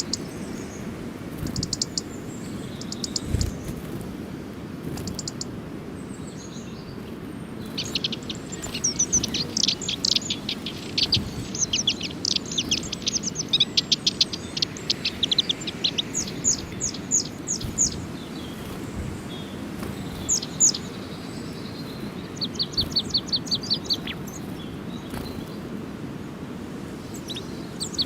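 Birds chirping in short quick notes: a few scattered chirps at first, then a dense flurry of overlapping chirps from about eight seconds in, and later runs of quick evenly repeated notes. A steady low background rumble sits underneath.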